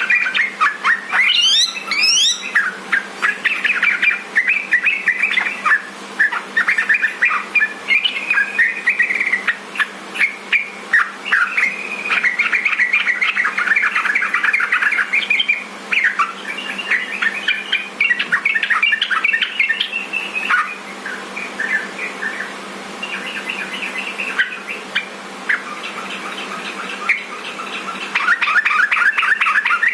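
Yellow-vented bulbul (trucukan) singing in long runs of rapid, bubbling, chattering phrases with hardly a pause. A steady faint low hum sits underneath.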